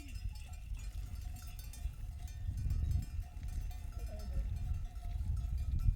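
Bells on a grazing flock of sheep clinking and ringing on and off, over a steady low rumble.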